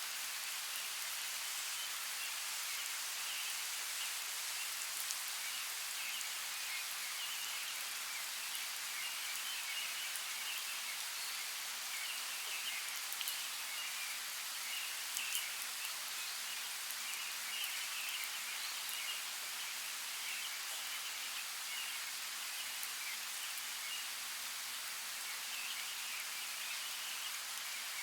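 Steady hiss of a creek's running water, with faint high chirping running through it and a few brief drip-like ticks.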